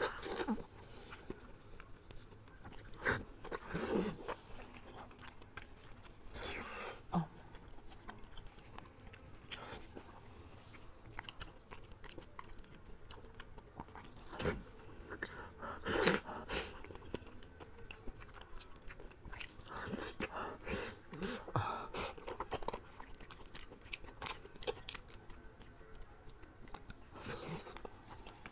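Close-miked chewing and biting of glazed braised pork belly: irregular wet mouth clicks and smacks, with a few louder bites along the way.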